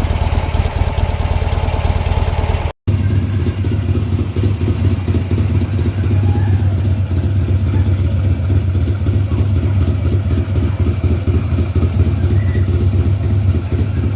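Buell motorcycle's air-cooled V-twin engine idling steadily. After a short cut about three seconds in, a 2007 Buell Firebolt's V-twin idles on steadily.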